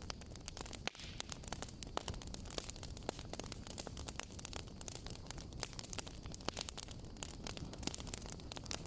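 Campfire crackling: dense, irregular pops and snaps over a steady hiss.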